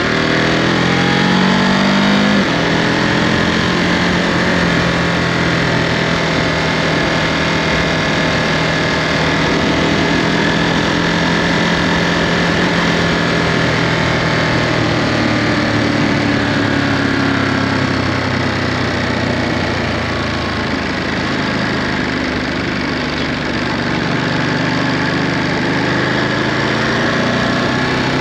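Ducati Monster 937's 937 cc Testastretta L-twin through its stock Euro5 exhaust, under way. The revs climb for about two seconds, drop suddenly as a gear is changed, and hold steady. They then fall away through the middle and pull up again near the end.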